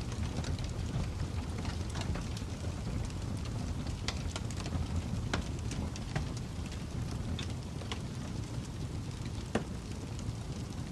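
Fire crackling: a steady low rumble with sharp, irregular pops and snaps, one of the louder ones near the end.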